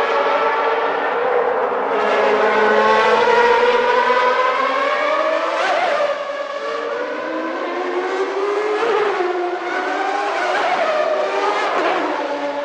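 High-revving naturally aspirated 1991 Formula One engines. A steady engine note climbs slowly in pitch over the first seconds. Then cars go past one after another, each with a quick rise and fall in pitch: one about halfway through and three more close together near the end.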